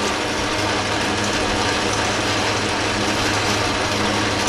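Metal lathe running with a steady gear-train clatter and a low hum, its cutting tool feeding in to turn down a round metal slug.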